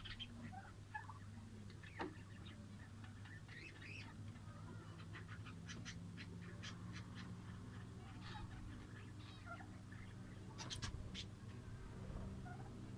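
Lovebirds chirping and chattering in short, high calls and clicks, with a denser flurry of calls about eleven seconds in, over a steady low hum.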